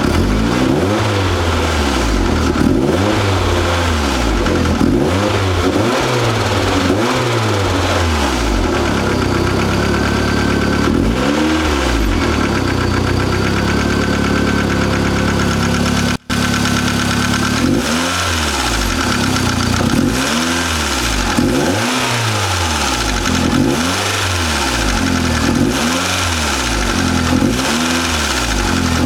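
Mazda Miata's freshly built four-cylinder engine, with Wiseco forged pistons and Belfab rods, being blipped up and down about once a second, with a steadier stretch in the middle. It makes a harsh, diesel-like clatter that the owner cannot explain.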